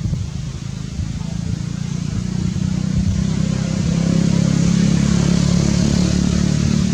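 An engine running, a steady low hum that grows louder a couple of seconds in and then holds.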